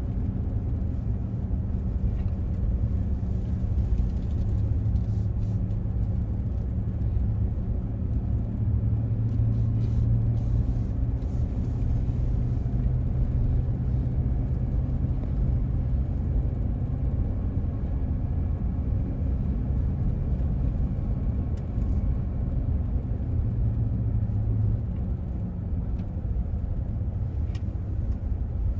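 Car driving on a road, heard from inside the cabin: a steady low drone of engine and tyre noise. The deepest part of the hum eases a little near the end.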